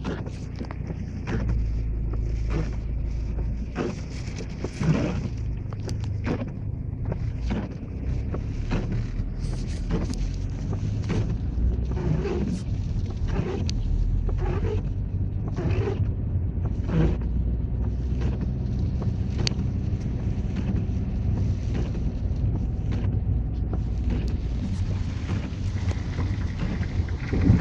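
Strong storm wind, gusting to about 104 km/h, buffeting the microphone with a steady low rumble. Irregular knocks and rattles come every second or so throughout.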